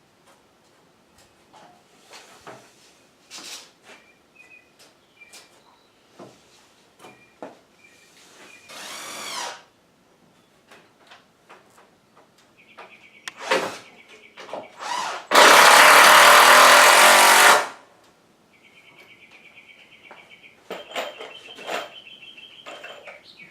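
Power drill run in short bursts, the longest and loudest for about two seconds in the middle, among scattered knocks of wood being handled. A bird trills repeatedly in between.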